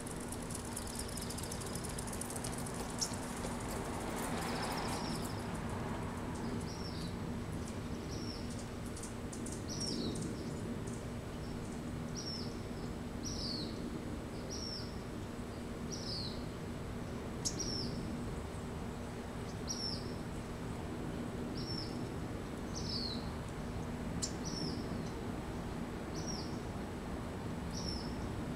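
A small bird repeating a short, high, falling chirp about once a second, over a steady low hum and outdoor background noise.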